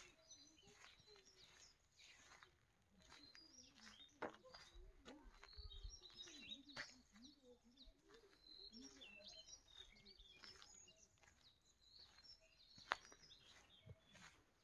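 Faint birdsong: small birds chirping and twittering, with a few sharp clicks, the loudest about 13 seconds in.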